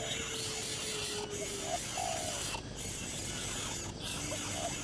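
A bird calling in short notes that rise and fall in pitch, over a steady hiss. A long, level low note is held through the first second and a half.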